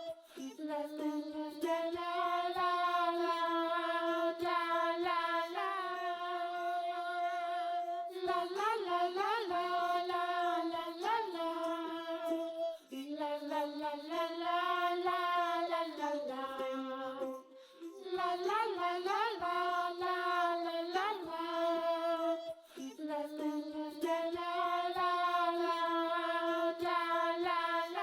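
Background music: a high child-like voice sings a wordless "la la la" melody in long held notes, phrase after phrase, with short breaks between the phrases.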